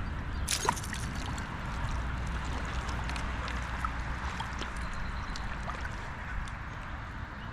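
Flowing creek water, with a short crackle about half a second in and a few faint ticks.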